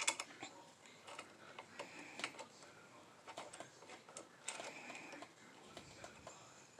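Faint, irregular clicks and taps of a small wrench and screw hardware being handled while a handle is fastened to a 3D printer frame.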